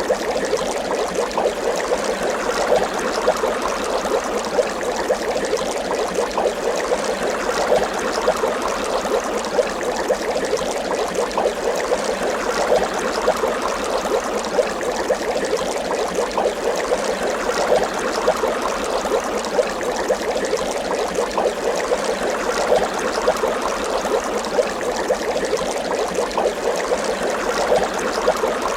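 Water bubbling, a steady dense run of small air bubbles rising and gurgling.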